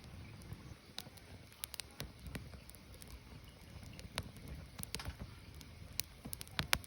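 Firewood burning, with sharp, irregular crackles and pops over a low, steady rumble. A quick run of louder cracks comes near the end.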